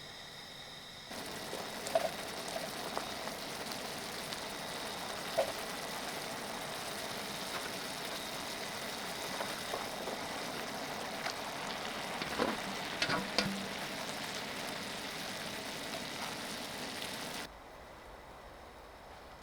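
Food sizzling as it cooks: a steady hiss with scattered small pops and crackles, starting suddenly about a second in and cutting off near the end.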